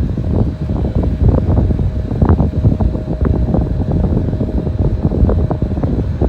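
Wind buffeting the microphone in constant, irregular gusts, a loud rumble with a faint steady whine beneath it.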